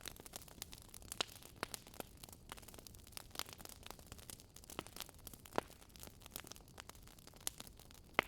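Campfire crackling: irregular sharp pops and snaps of burning wood, several a second, a few of them louder, over a faint steady hiss.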